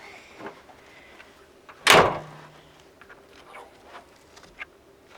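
One loud slam about two seconds in, among faint knocks and rustling from gear being handled in the back of a pickup truck.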